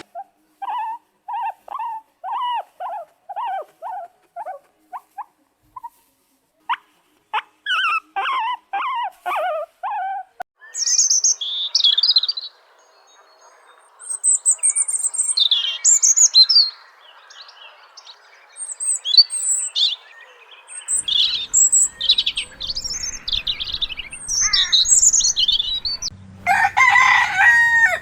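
A sequence of bird sounds. First comes a run of short, evenly spaced calls for about ten seconds. Then a high, quick chirping song. A rooster's crow starts loudly near the end.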